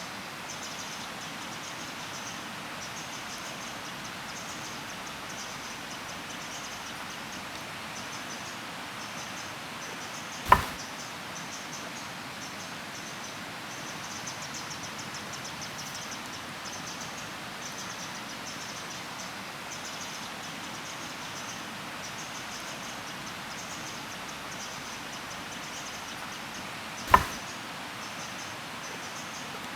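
Insects chirping steadily in a fast, high-pitched pulse over a steady outdoor hiss. Two sharp single knocks or cracks stand out, one about ten seconds in and one near the end.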